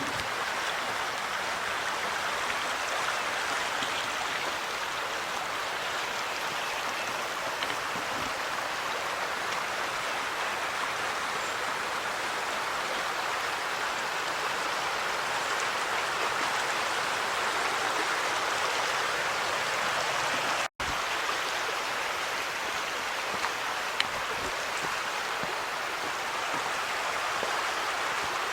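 Steady rush of a creek flowing over rocks, a constant even wash of water noise, briefly cut off about two-thirds of the way through.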